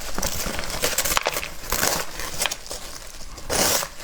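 Crinkling and crackling of a mold being peeled and torn away from a frozen treat, with many small clicks and a louder rustle near the end.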